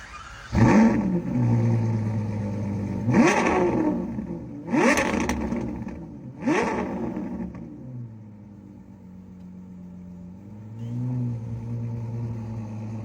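V12 car engine revved hard four times, each rev a quick rising sweep that falls away. It then settles back to a steady idle, with a light blip of the throttle near the end.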